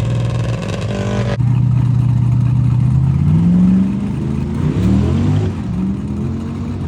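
Turbocharged car engine holding a steady note, then accelerating hard, its pitch rising and dropping back several times as it pulls through the gears.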